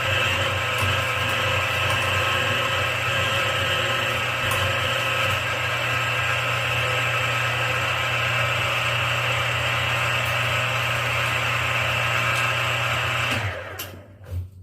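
Drilling machine running steadily as it drills the last hole through stacked steel plates, then switched off, its sound falling away quickly near the end.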